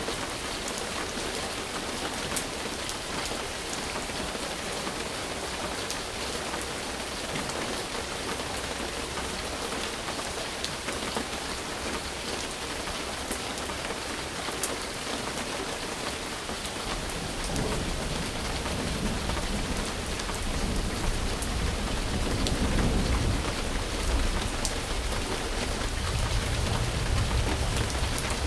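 Steady rainfall hissing, with scattered drops ticking. A little over halfway through, a low rumble of thunder comes in and builds, growing louder toward the end.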